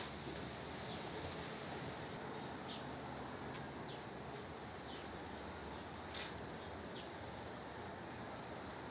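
Birds giving scattered short, high chirps over a steady background hiss, with the loudest chirp about six seconds in.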